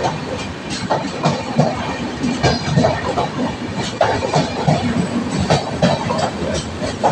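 Passenger coaches of an express train running through a station at speed: a steady rumble with wheels clattering and knocking over the rail joints in an irregular run of sharp clacks.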